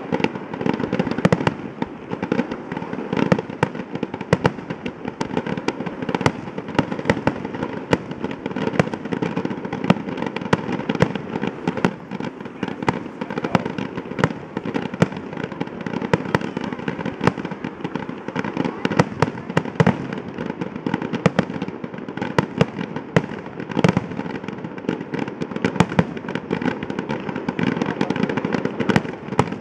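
Aerial fireworks display going off continuously: many sharp bangs in rapid succession over a dense rumble of overlapping bursts and crackle.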